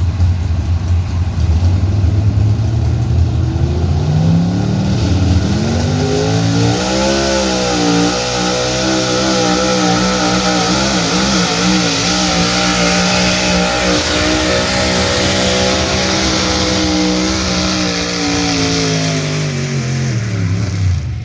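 Altered gas pulling truck's engine revving up from a low idle, then held at high revs for about thirteen seconds with the pitch wavering, and dropping back down just before the end: a full pull down the track.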